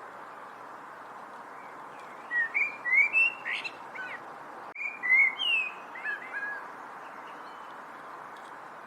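A songbird singing two short phrases of slurred, whistled notes, the first about two seconds in and the second around five seconds, over a steady background hiss.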